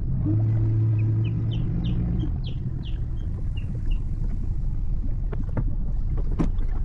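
Boat motor running with a steady low rumble, a steady hum in it for the first two seconds or so. A bird calls over it with a quick run of about ten short, falling chirps in the first half.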